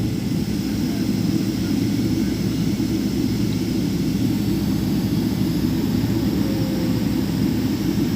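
Steady low rumble of a jet airliner's engines and airflow heard from inside the passenger cabin, with the plane on the ground just after landing.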